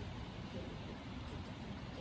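Steady low background rumble and hiss, with no distinct sound standing out.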